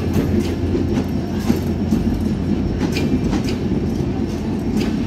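A train running on the rails: a steady low rumble with scattered sharp clicks from the wheels and track.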